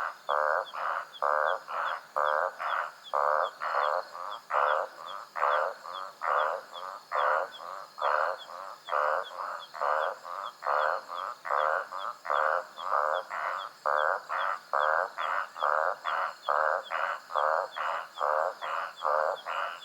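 A chorus of frogs calling at night: short pulsing calls repeated quickly, two or three a second, with several callers overlapping. Under them runs a steady high-pitched insect trill with faint quick chirps.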